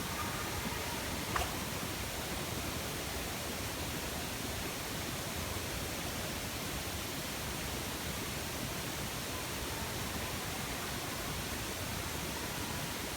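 Steady, even hiss with no calls or voices in it, broken only by one faint click about a second and a half in.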